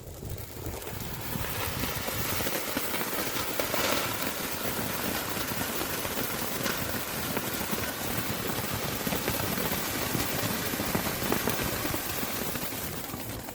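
Sky King Gold Feast fireworks fountain burning: a steady, loud hiss of spraying sparks that dies down at the very end.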